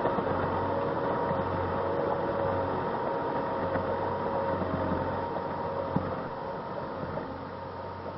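A vehicle's engine and drivetrain running steadily, with a constant whine over the engine noise, growing quieter near the end.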